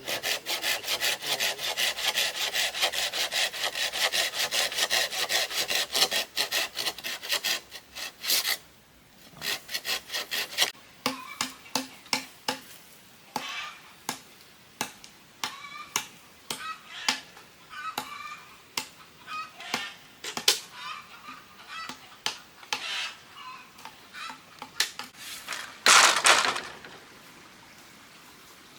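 Saw cutting bamboo in fast, even strokes for about eight seconds. Scattered knocks and taps follow, and one loud rasping burst comes near the end.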